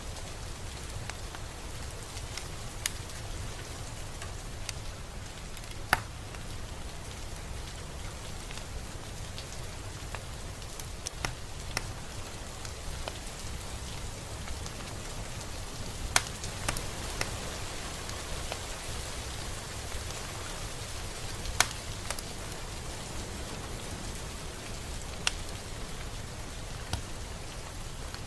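Steady rain falling, with a low rumble underneath and scattered sharp drops striking close by, a few of them louder than the rest.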